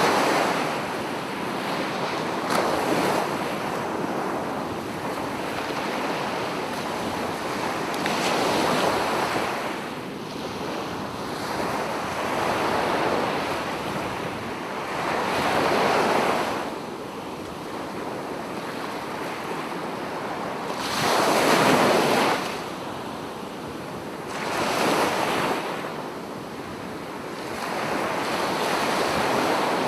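Sea waves breaking on a beach, each rising to a rush of surf and washing back every few seconds, with wind on the microphone. The biggest wave breaks about two-thirds of the way through.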